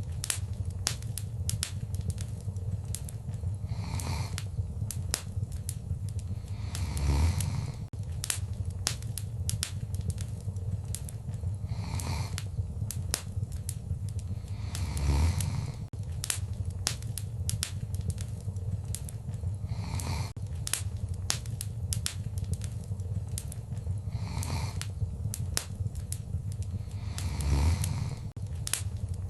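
Wood fire crackling in a fireplace: a steady low rumble of burning with frequent sharp pops and snaps, and louder swells of flame noise every few seconds, the strongest about seven, fifteen and twenty-eight seconds in.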